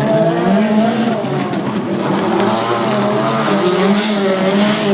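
Rallycross Supercar engines running hard, their pitch rising and falling with the revs as the cars race.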